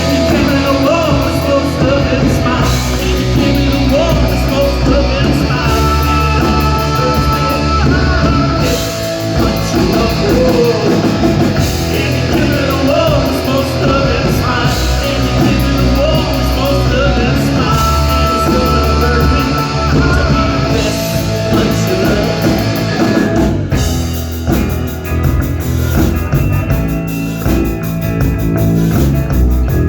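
Live rock band playing a wordless instrumental passage: a wavering lead melody over guitar, bass and drums. About 23 seconds in, the playing changes and the drums and cymbals come forward.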